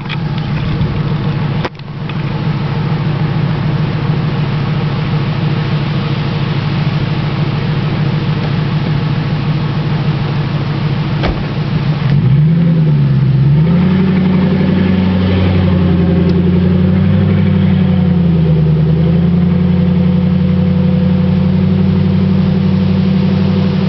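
Ford Crown Victoria Police Interceptor's 4.6-litre V8 running loud with no mufflers: a steady, deep idle, then about halfway through it grows louder and its pitch rises and wavers under throttle as the car pulls away.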